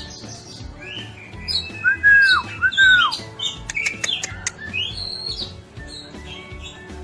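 Oriental magpie-robin (kacer) singing a loud, varied song of quick chirps and whistles, with two strong down-slurred whistles about two seconds in.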